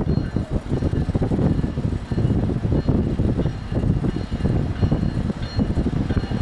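Freight train rolling past close by: a loud, dense and uneven rumble of wheels on rail, with a faint high steady whine above it and wind buffeting the microphone.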